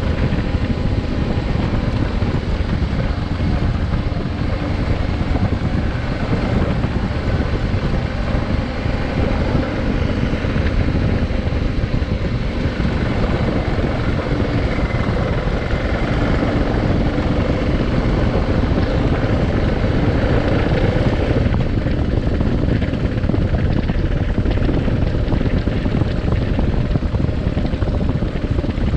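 Adventure motorcycle engine running steadily while riding, its pitch drifting a little with engine speed, mixed with wind noise on the microphone.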